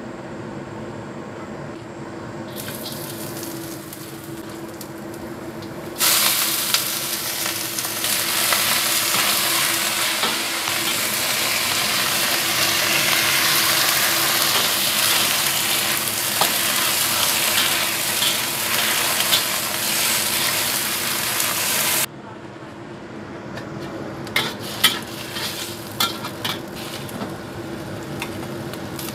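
Oil heating in a wok over a gas flame with a faint sizzle, then about six seconds in a sudden loud, steady sizzle as cabbage is stir-fried in the hot oil; it stops abruptly about two-thirds of the way through. After that a metal spatula clicks and scrapes as the cabbage is scooped out.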